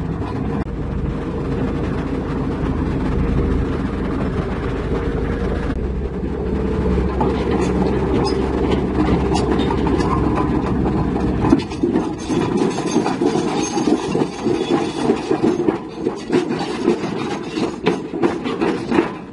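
Heavy diesel machinery running with a steady low rumble. About halfway through the rumble drops away and irregular metallic clanking and knocking take over.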